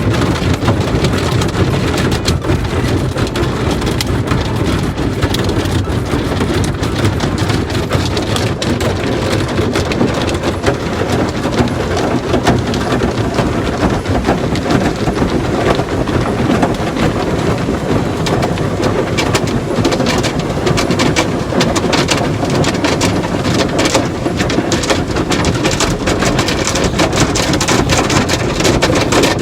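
Car wash water jets spraying onto a car, a steady dense hiss with rapid patter like heavy rain.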